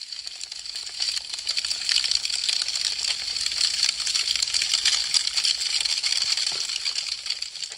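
Wood fire crackling: a dense run of quick snaps and pops from burning branches. It swells in over the first second and fades near the end.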